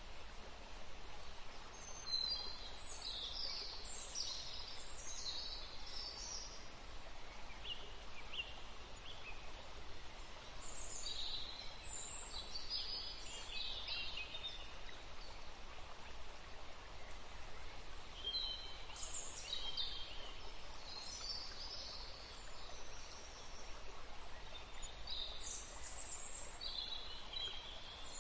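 Birds chirping faintly in several short bouts over a steady background hiss.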